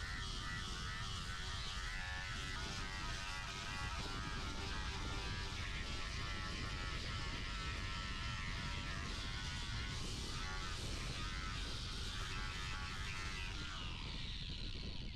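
Angle grinder with a coarse rubber-backed sanding disc grinding down cured resin, its motor whining steadily, the pitch wavering as the disc bites and eases. The whine stops abruptly near the end.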